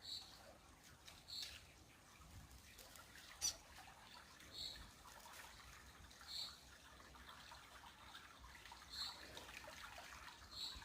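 Faint trickle of creek water, with a short high chirp repeating every second and a half to two seconds, and one sharp click about three and a half seconds in.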